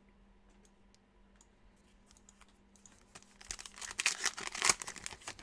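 Trading-card pack wrapper being torn open and crinkled. It starts faint with a few small clicks, then from about halfway in comes a dense crackling that grows louder.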